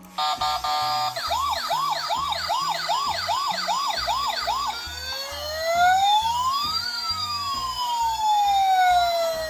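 Electronic emergency-vehicle sirens, the kind of siren sound a toy ambulance makes: a brief steady tone, then a fast rising-and-falling yelp about two to three times a second, then slower wails that rise and fall, several overlapping. Background music with a steady beat runs underneath.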